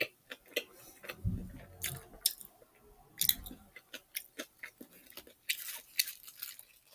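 Close-up chewing of a fried chicken sandwich: a string of small crisp crunches and wet mouth clicks, with two low dull bumps about a second in and again past three seconds.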